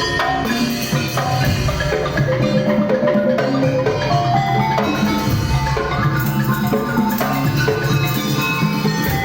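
Madurese daul ensemble playing: drums beating a steady rhythm under melodic mallet percussion.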